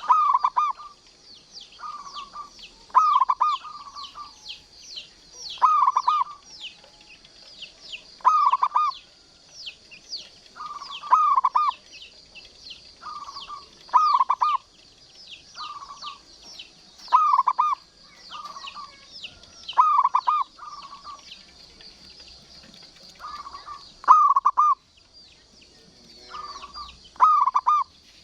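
Zebra dove (perkutut) song: short phrases of rolling coos, repeated every one to three seconds, over a background of fast, high chirping.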